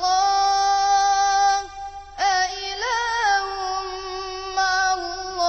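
A child's high voice chanting Quran recitation in melodic tajweed style, holding the word "Allah" in long, level drawn-out notes. About two seconds in there is a short breath, then a sliding onset and a brief wavering ornament before the note is held again.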